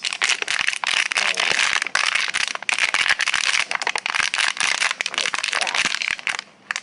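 Empty plastic water bottle crinkling and crackling loudly as it is squeezed and forced into a tight gap on an electric scooter, dipping briefly near the end.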